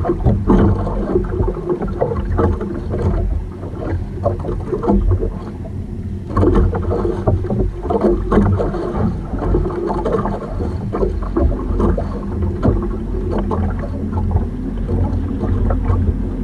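Small outrigger fishing boat's engine running steadily at sea, with wind on the microphone. Frequent short knocks and rustles come from the fish being handled in the boat.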